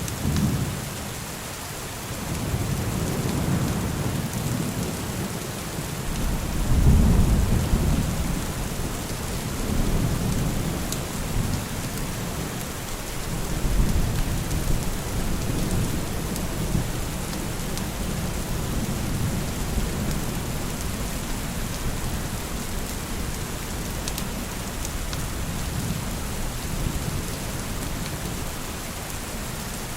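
Steady rain with thunder rolling underneath in long low rumbles, the loudest swelling about seven seconds in.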